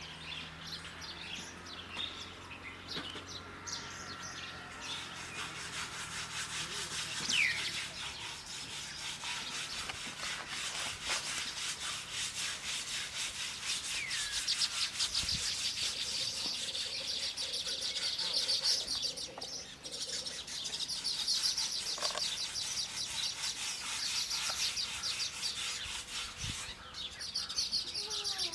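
Small birds chirping in a rapid, dense high-pitched twitter, with a few short falling whistled notes.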